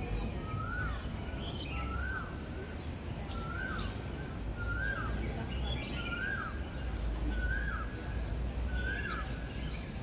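A bird repeating the same short call about once a second, a quick note that rises and then drops, nine or ten times in a row, with fainter higher chirps from other birds. A steady low rumble lies underneath.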